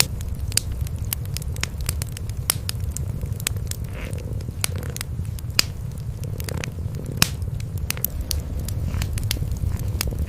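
Cats purring in a steady low rumble, with a wood fire crackling over it in many sharp, irregular pops.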